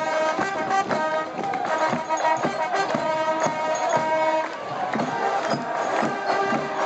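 Band music with held horn-like notes over a steady drum beat of about two strikes a second.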